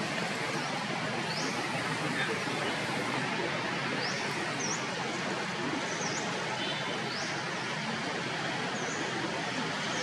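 Steady outdoor background noise with a bird's short, high chirps repeating about once a second.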